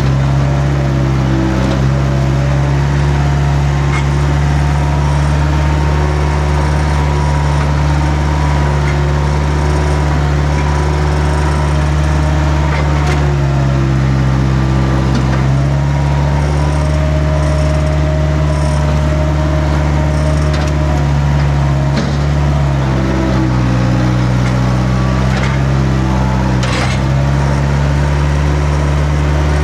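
Skid steer engine running steadily at working speed, its pitch shifting slightly a few times under load, with a few short knocks.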